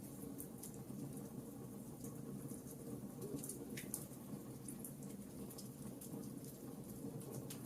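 Wood logs burning in a fireplace: a steady low rush of flames with scattered, irregular light crackles and pops.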